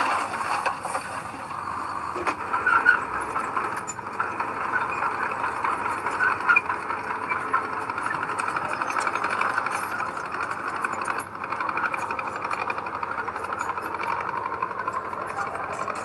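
Heavy earthmoving machinery running steadily, with a continuous mechanical drone and scattered small clicks and rattles.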